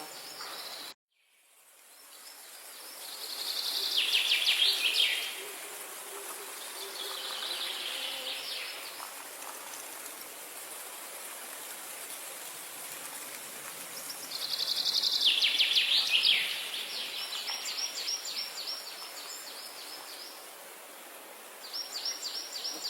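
Outdoor birdsong: several phrases of fast, rapidly repeated high notes, each a second or two long, over a steady background hiss. The sound cuts out briefly about a second in and fades back up.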